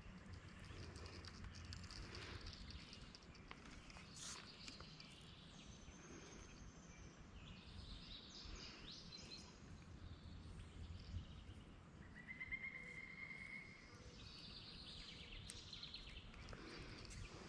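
Faint outdoor ambience with scattered bird calls, including a short steady trill about twelve seconds in.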